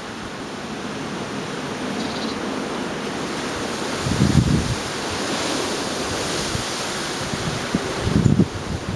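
Gale-force storm wind blowing steadily and swelling near the middle, with low rumbling buffets of wind on the microphone about four seconds in and again near the end.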